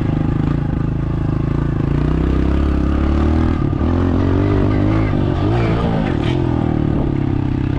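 Dirt bike engine running while riding, its pitch wavering up and down with the throttle between about three and six seconds in.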